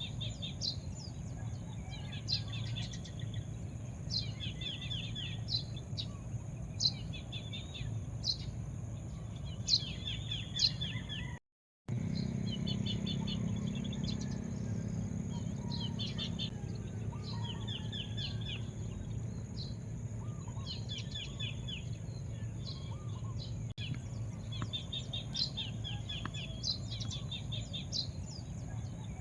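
A bird chirping, repeating a short phrase every second or two: a sharp high note and then a quick run of chirps. Underneath is a steady low rumble and a faint steady high whine. Everything cuts out for about half a second near the middle.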